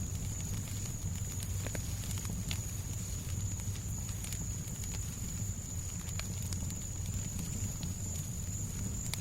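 Fireplace crackling with scattered small pops over a steady low rumbling noise, with a faint steady high whine throughout.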